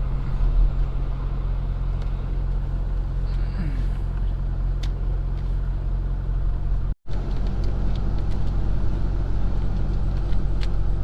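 Semi truck's diesel engine and road noise from inside the cab while driving: a steady low drone that drops out suddenly for a moment about seven seconds in.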